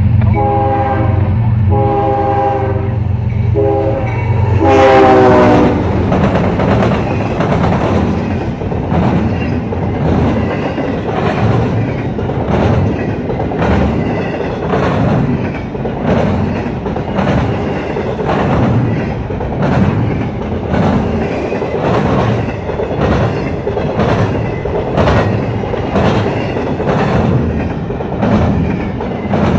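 Freight train passing close by. The lead GE ES40DC diesel locomotive sounds its horn in several short blasts and then a longer one that drops in pitch as it goes by, with the engine rumbling underneath. After that, the intermodal container well cars roll past with a steady run of wheel clacks as they cross the diamond.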